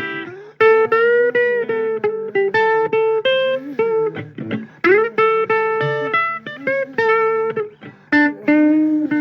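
Guitar playing a blues lead of single sustained notes, several of them bent in pitch, in short phrases with brief breaks between them.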